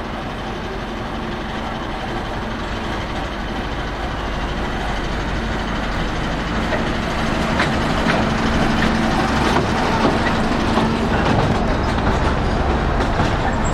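Narrow-gauge passenger train approaching and passing close by, its running noise growing steadily louder. Sharp wheel clicks on the rails join in as the carriages go past, about halfway through.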